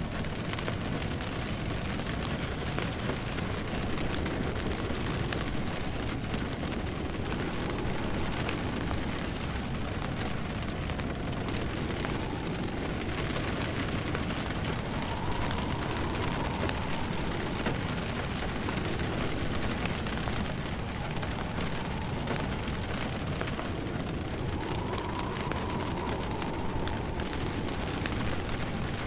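Steady rain mixed with a crackling wood fire. Twice, about halfway through and again near the end, a faint howl of wind rises and falls.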